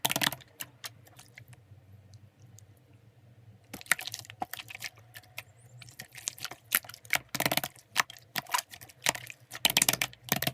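Irregular clicks of typing, with a pause of about three seconds near the start before the clicking resumes more densely.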